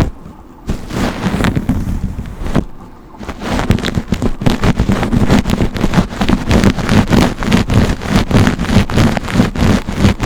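Close-miked brush strokes, scratching fast at about four to five strokes a second, with two brief pauses in the first three seconds.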